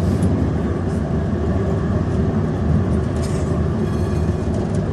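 Tram running along its rails, heard from inside the car: a steady low rumble of wheels and running gear, with a few faint brief high rattles about three seconds in and again near the end.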